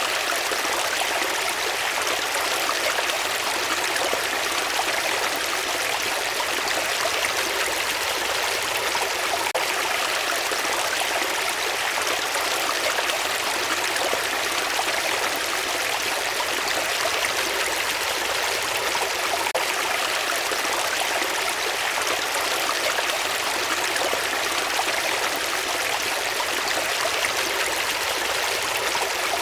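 Running water, like a stream flowing over rocks: a steady, even rushing with no breaks or changes.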